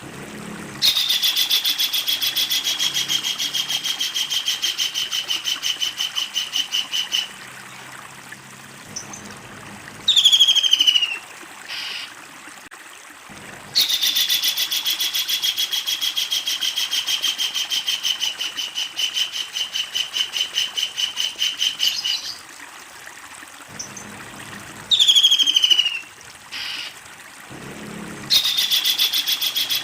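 Kingfisher calling: two long, rapid rattling series of loud, evenly repeated notes, each lasting several seconds, with short sharp falling calls between them, and a third series starting near the end.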